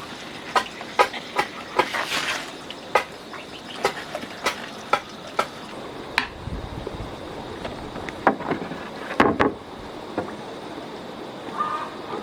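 A series of sharp knocks, like strikes of a tool on wood, about two a second and then more widely spaced, over a steady hiss.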